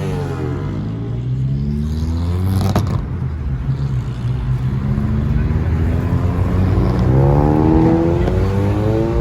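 A car engine revving. Its pitch falls over the first two seconds, then climbs steadily from about four seconds in to a peak near eight seconds and drops away near the end. There is a sharp click a little before three seconds.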